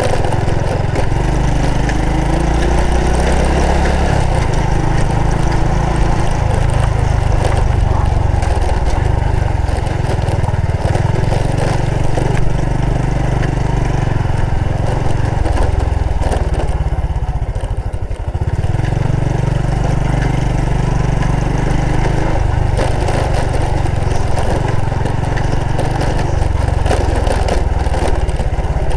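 Honda Supra X 125 FI underbone motorcycle's single-cylinder four-stroke engine running under way, with rushing wind noise. About two seconds in the engine note climbs, and about eighteen seconds in it briefly drops off before picking up again.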